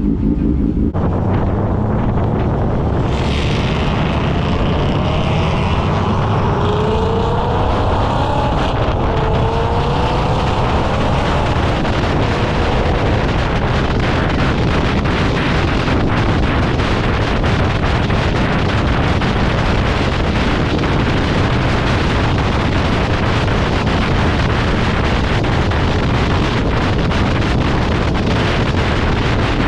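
A car on the move with wind buffeting the microphone, a loud steady rush with a strong low rumble. Between about four and thirteen seconds in, a pitched engine note rises and falls a few times.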